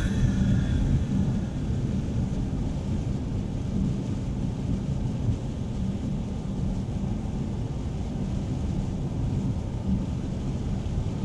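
Steady low rumble of a car driving on the highway: engine and tyre noise, with nothing standing out.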